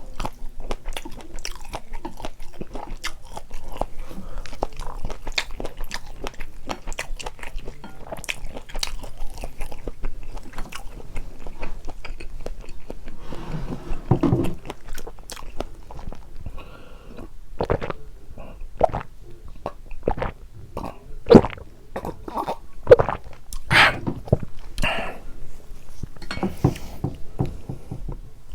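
Close-miked mouth sounds of eating spicy carbonara noodles: steady chewing with many quick wet clicks, then fewer but louder separate bites, two of them sharp and loud about three quarters of the way through.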